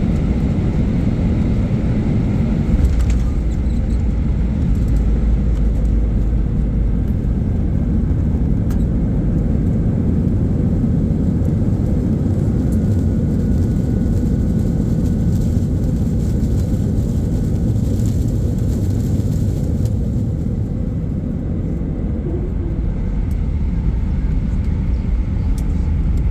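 Steady low rumble of an aircraft, with a brief knock about three seconds in.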